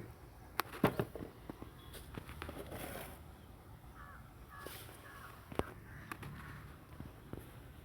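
Birds calling a few times, about four to five seconds in, with a few sharp clicks or knocks, the loudest about a second in.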